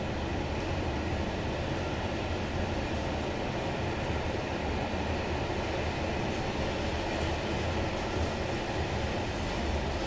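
Freight train of covered hopper wagons rolling past, a steady noise of wheels on rails.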